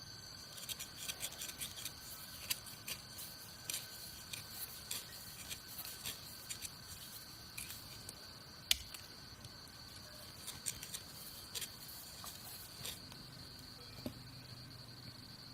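Irregular crisp clicks and snips, densest in the first few seconds and again from about ten to thirteen seconds in, with one louder click about nine seconds in, over a steady high-pitched insect drone.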